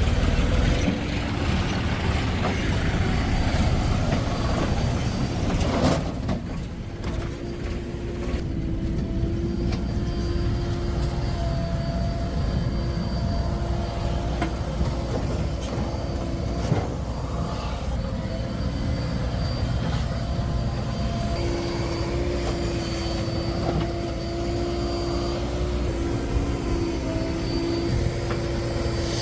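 Heavy diesel machinery running steadily at a soil-loading site, with a low engine rumble. It is louder and rougher for the first six seconds, then settles into an even run with a steady whine over it.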